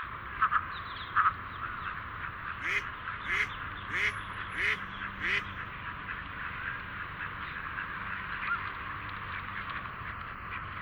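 Ducks quacking, with a dense chatter of other calls behind them. Two sharp calls come near the start, then a run of five evenly spaced calls, about one and a half a second.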